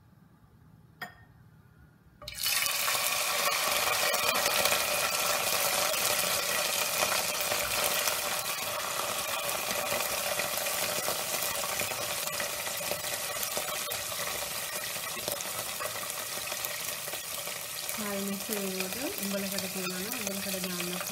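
Dried sprats dropped into hot oil in a pot: after a single light clink, a loud burst of sizzling starts suddenly about two seconds in and keeps up steadily, easing a little toward the end.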